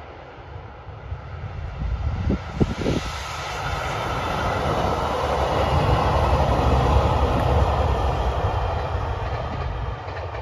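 JR Shikoku 2700 series diesel limited-express train passing at speed. Engine rumble and wheel noise swell to a peak about six to eight seconds in, then fade as the train draws away. A few short low thumps come at about two and a half seconds.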